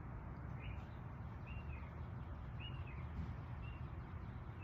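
A bird calling with short, repeated chirps, about one a second, over a steady low background rumble.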